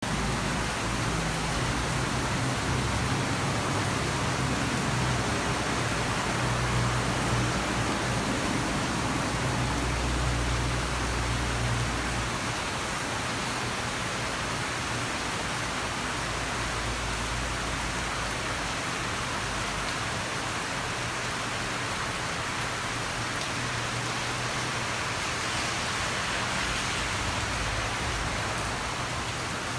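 Heavy tropical-storm rain falling steadily, a dense even hiss. A low rumble lies under it for about the first twelve seconds, then drops away.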